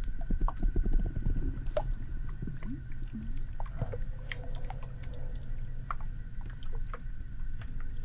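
Muffled water sounds from a kayak: a steady low rumble with many small clicks and knocks scattered through it, and a faint steady whine.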